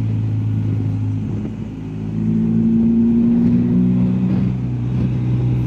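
BMW R1250GS Adventure's boxer-twin engine running on the move, easing off for a moment about a second and a half in, then pulling again with a higher, slightly rising note for a couple of seconds.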